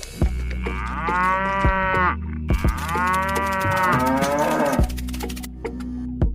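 A cow mooing twice in two long calls, over a steady low hum.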